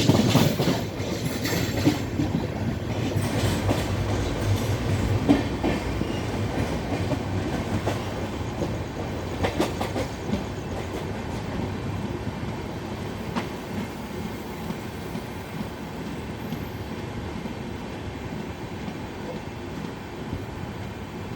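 Coaches of an Indian Railways express train rolling past as it enters a station, with wheels clicking over the rail joints. The rumble slowly grows fainter through the stretch, and the clicks thin out after the first few seconds.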